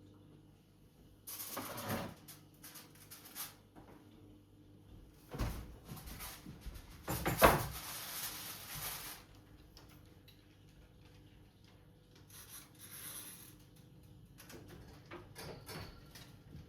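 Indoor handling sounds: scattered knocks, clatter and rubbing, with one sharp knock about halfway through, over a faint steady hum.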